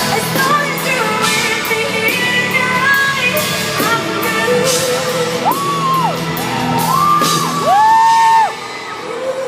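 Live pop performance: a female lead singer holds long sustained notes over the band, with crowd whoops in a large reverberant arena. The loudest held note cuts off about a second before the end, and the music falls away.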